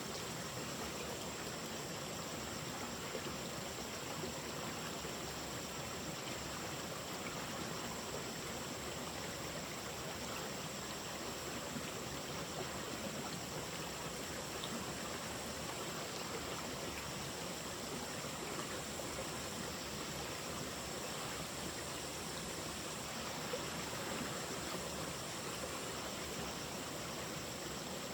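Running water, like a flowing stream, as a steady even rush with no breaks, and faint steady high-pitched tones over it.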